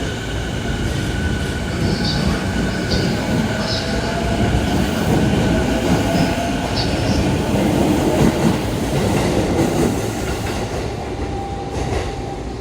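Electric commuter train moving along the station platform, its wheels rumbling and clacking on the rails, with a faint motor whine that slowly rises in pitch. The noise swells mid-way and eases near the end.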